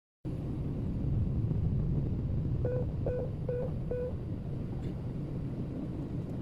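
Steady low rumble of an airliner cabin before takeoff. Around the middle come four short, evenly spaced beeps of the same pitch.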